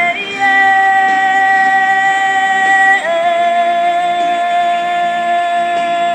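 Rock song: a singer holds one long note, then moves to a slightly lower note about three seconds in and holds it, over quieter band backing.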